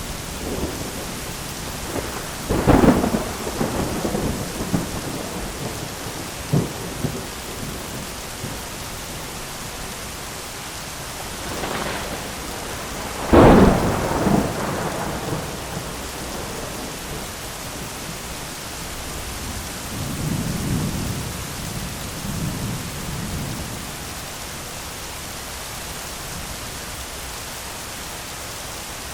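Steady heavy rain falling on an umbrella during a thunderstorm. Thunder cracks sharply about three seconds in and again, loudest, near the middle, with a smaller crack around six seconds and softer low rumbles later on.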